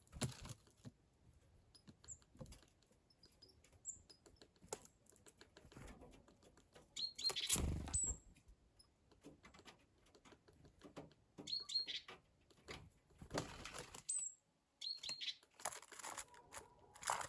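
Small birds at a feeder: short, high chirps scattered throughout, with several brief flurries of fluttering wings, the loudest about halfway through.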